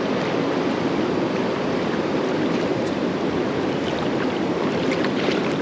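Steady rushing of creek water running through rapids.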